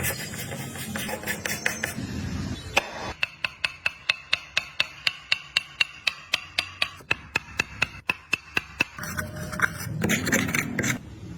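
Hammer tapping on wood in a steady, fast run of about five strikes a second through the middle, with rougher workshop scraping and knocking before and after.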